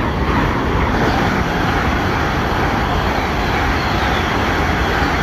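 Great Western Railway Hitachi Intercity Express Train passing through the station at speed: a loud, steady rush of wheel and air noise as the carriages stream by.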